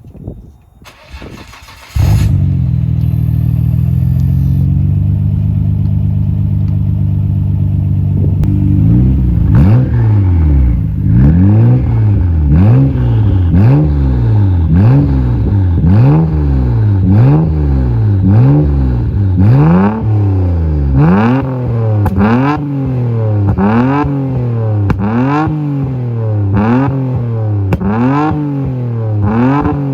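Nissan Skyline R33 GT-R's twin-turbo RB26DETT straight-six running through an A'PEXi R95 full-titanium exhaust. After a couple of seconds of faint clatter the engine comes in loud and holds a steady idle. From about eight seconds in it is revved over and over, the pitch rising and falling roughly once a second.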